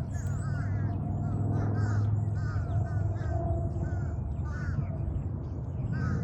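Wild birds calling: short arched calls repeated in quick runs of three or four, with thin high chirps of smaller birds over a steady low rumble.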